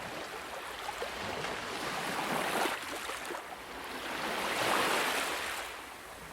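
Ocean waves washing in, a rushing hiss that swells twice, the larger swell about five seconds in.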